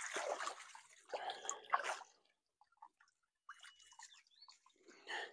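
Wild celery being washed by hand in stream water: several irregular bursts of splashing and dripping, the longest in the first two seconds.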